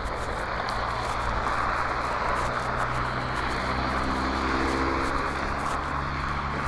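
A distant engine drone under an even rushing noise, with a low pitched hum that grows clearer about halfway through.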